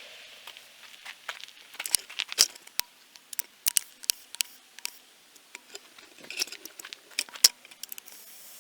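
Irregular clicks, taps and light clattering of small hard objects being handled, loudest about two and a half seconds in and again near the end.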